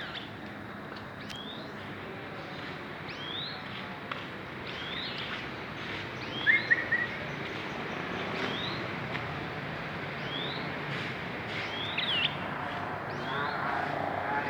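A songbird calling, repeating a short rising whistled note every second or so, with a brief louder chattering burst about six seconds in, over steady outdoor background noise.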